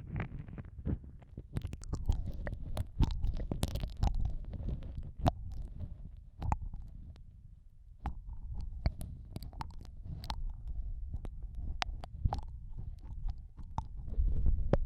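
Ear-eating mouth sounds pressed close to the microphone: wet clicks, licking and sucking scattered irregularly over a low muffled rumble, easing off briefly about halfway through.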